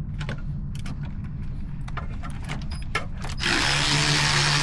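Scattered clicks and clinks of a wrench working on a bolt, then about three and a half seconds in a power tool runs for about a second and a half, loosening a 10 mm bolt.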